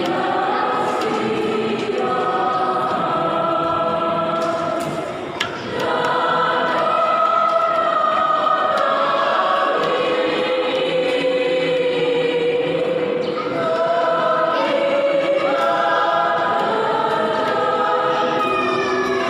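A church choir singing, many voices holding long notes together, with a brief break between phrases about five seconds in.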